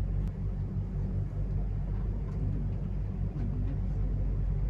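Steady low background rumble with a constant hum, unchanging throughout.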